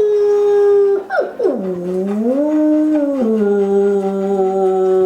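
Long drawn-out howling. A held howl slides down at the start and holds; about a second in, a second, lower howl dips, rises, falls back and holds on one note to the end.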